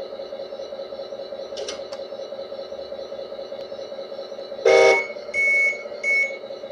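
Sound module of a 1/14-scale Scania RC truck playing a steady idling diesel engine. About two-thirds of the way through it gives one loud horn blast, followed by two shorter high beeps.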